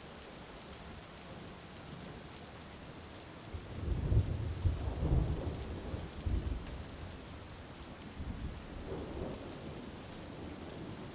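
Steady heavy rain with a deep roll of thunder that builds about three and a half seconds in, is loudest for the next few seconds and rumbles away, with a smaller rumble a little later.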